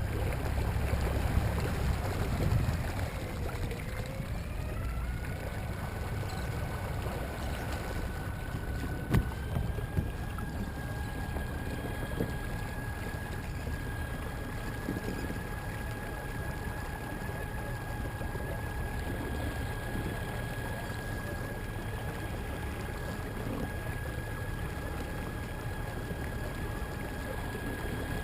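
Torqeedo Ultralight electric outboard driving the kayak, with a steady whine that steps up in pitch twice in the first ten seconds and then holds, over water rushing along the hull. A single sharp knock comes about nine seconds in. The boat is not making the speed expected, which the owner puts down to the propeller cavitating.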